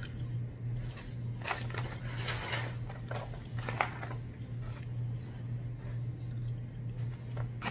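Close-miked mouth sounds of someone chewing french fries, with a few short rustles of the paper liner as fries are picked from the basket, over a steady low hum.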